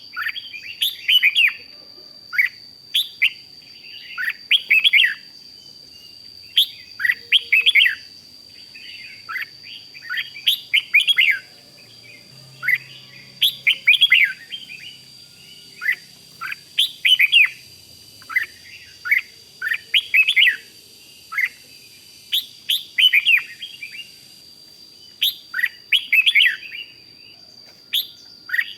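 Red-whiskered bulbul singing short, quick phrases of falling whistled notes, repeated every second or two. A steady high-pitched tone runs underneath.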